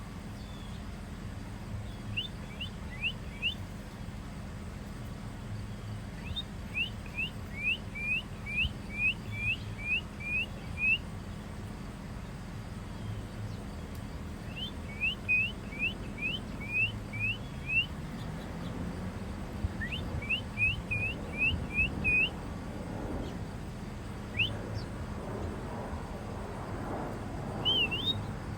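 A songbird singing four phrases of quick, repeated slurred whistles, about two or three notes a second, with pauses of a few seconds between phrases and single notes near the end.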